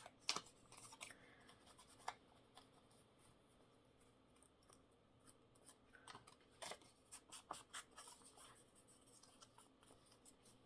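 Faint, scattered snips and clicks of scissors cutting paper, with a run of quick snips about seven seconds in.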